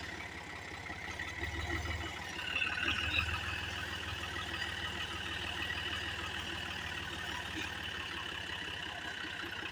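Tractor engine running steadily with an even low pulse, swelling a little about two to three seconds in, as the stuck tractor works to pull free of the mud.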